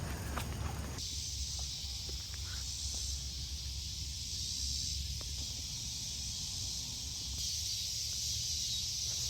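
Steady chorus of insects, a high hiss-like buzz that sets in about a second in, with a few footsteps just before it.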